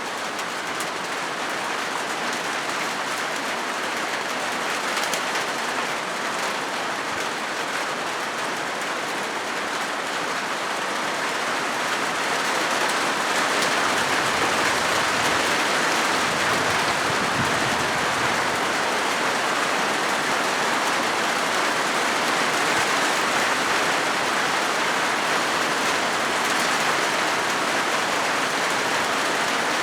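Rain falling steadily on a corrugated galvanized-metal roof, a continuous dense patter that grows louder about halfway through.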